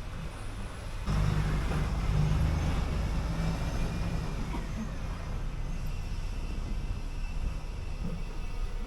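City bus diesel engine running, growing suddenly louder about a second in and staying loud, then easing a little.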